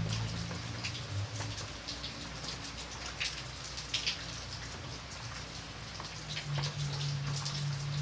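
Rain falling steadily: a continuous hiss with many separate drops ticking sharply, several a second, and a low hum underneath.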